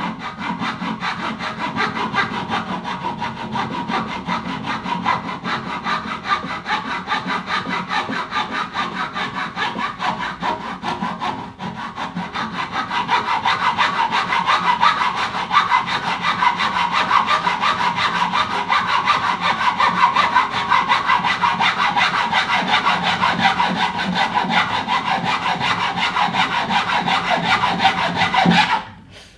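A saw cutting into the wood of an old oud with quick, even back-and-forth strokes. There is a short break about eleven seconds in, the strokes grow louder from about thirteen seconds on, and they stop suddenly just before the end.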